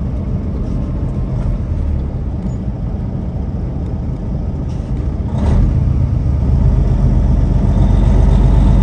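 A vehicle driving on the road, with a steady low engine hum and road rumble that grows louder about five and a half seconds in.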